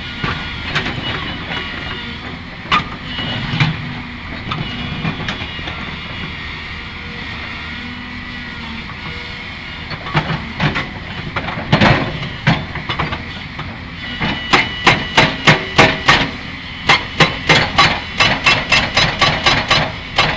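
Hyundai crawler excavator running at work on limestone, with scattered knocks and scraping. About two-thirds of the way in, a fast, even metallic clanking starts at about five strokes a second, pauses briefly, then carries on.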